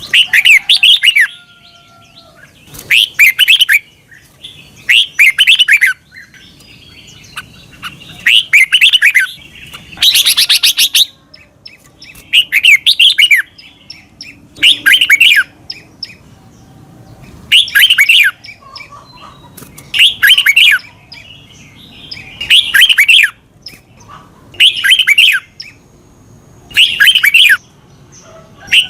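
Red-whiskered bulbul singing, repeating a short, loud phrase about once every two seconds with quiet gaps between.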